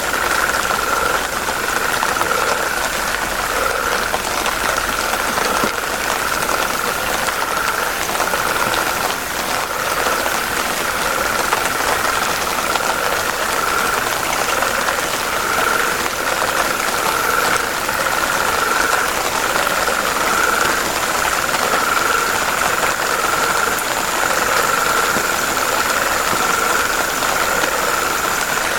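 Dense chorus of frogs calling by a river, a continuous pulsing drone over a steady hiss, with a thin high steady tone above it.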